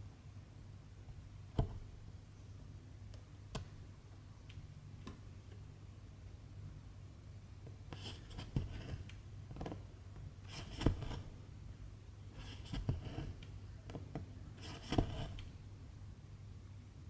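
Needle and silk thread being drawn through cross-stitch fabric: a few light clicks, then four short scratchy pulls about two seconds apart, over a low steady hum.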